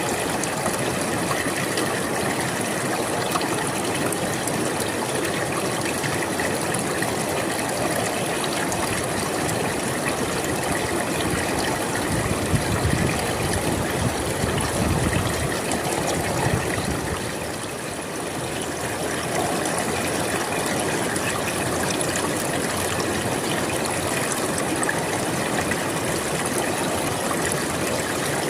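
River water flowing steadily over rocks, a continuous rushing and trickling, with a somewhat fuller surge about halfway through that eases off a few seconds later.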